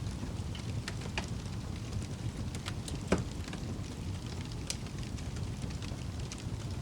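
Wood fire crackling: scattered sharp pops over a steady low rumble of flames, with one louder pop about three seconds in.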